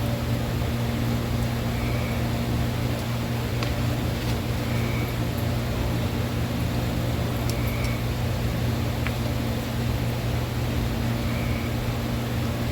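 Steady low machine hum, like a fan or air-conditioning motor, with a few faint light clicks scattered through it.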